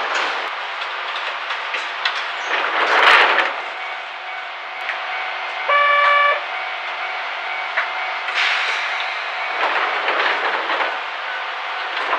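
Inside a 762 mm narrow-gauge Sangi Railway Hokusei Line train under way: steady wheel-and-rail noise with louder swells, and a short horn blast about six seconds in.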